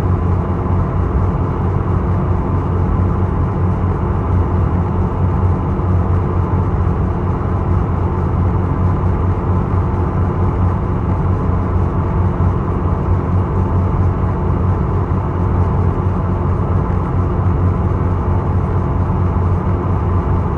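Steady low drone of the ferry Isokaze's engines heard on board, a constant hum with a few fixed tones over a rushing background, unchanging throughout.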